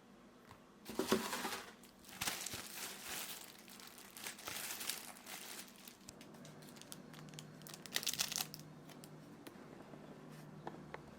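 Plastic packaging crinkling as it is handled, in three irregular bouts.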